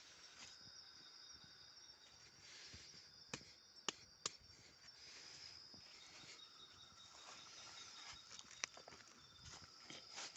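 Faint, steady high-pitched chirping of insects, with three sharp clicks around four seconds in and another later on.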